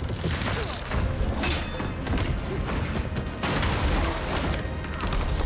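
Dramatic film score mixed with heavy booms and crashing impacts from a fight-scene soundtrack, with sharp hits about a second and a half in and again about three and a half seconds in.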